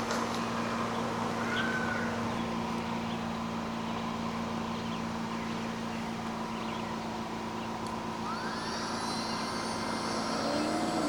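Electric air pump running with a steady, even hum as it inflates an air-beam tent.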